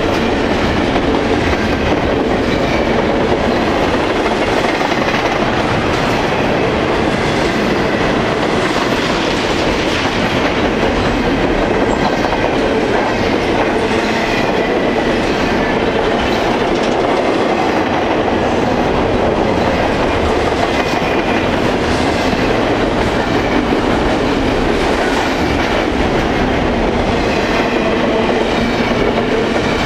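Freight train cars rolling past close by, wheels clacking steadily over the rail joints, with a faint thin squeal from the wheels.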